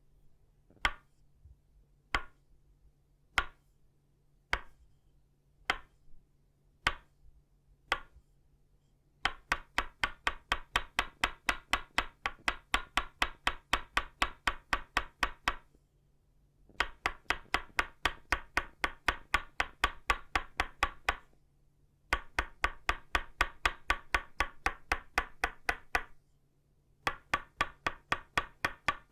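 Tok sen: an itauba wooden mallet striking a wooden peg. It starts with single knocks about a second apart, then switches to quick runs of about four taps a second, with short pauses between runs.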